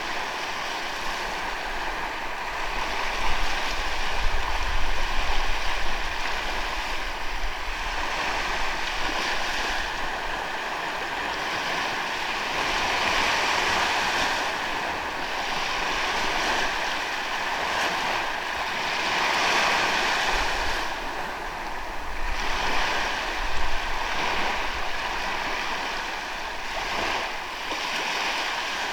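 Sea waves washing onto a beach, a steady rushing wash that swells and eases every few seconds as each wave breaks and draws back.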